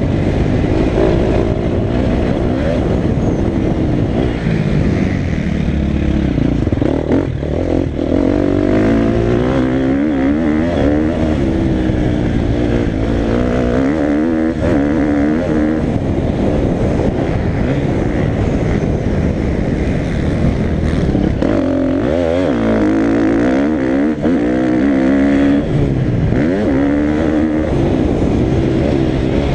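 Motocross dirt bike engine being ridden hard round a track, its pitch rising and falling over and over as the throttle is opened and shut through corners and straights, with a few brief dips where the throttle is shut off.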